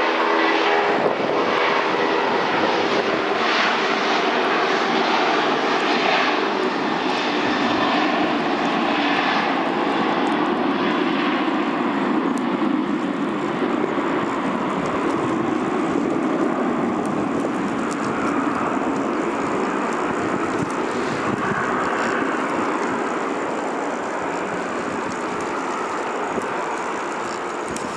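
Airliner engines running as a loud, steady roar that eases slightly toward the end.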